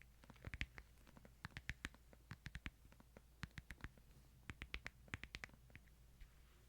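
Faint, light taps and clicks coming in quick irregular clusters: ASMR handling sounds of a Bible close to the microphone.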